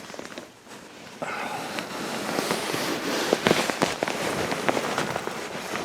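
Frost crunching and crackling: a dense, irregular run of sharp crackles that starts about a second in.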